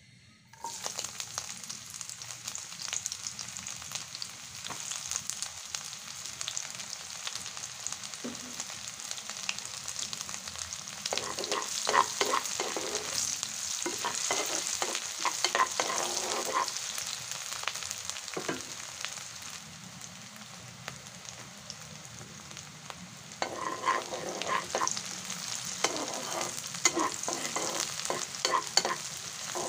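Sliced onion frying in hot oil in a wok: a steady sizzle that starts suddenly about half a second in. A wooden spatula stirs and scrapes the pan in two spells, one in the middle and one near the end.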